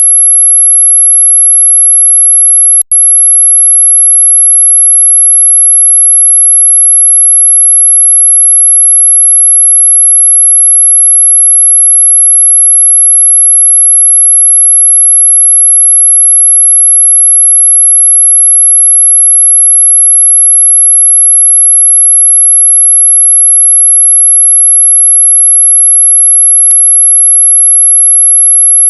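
A steady, very high-pitched pure sine tone at about 11 kHz, played as an anti-mosquito repellent sound. It cuts out for an instant about three seconds in.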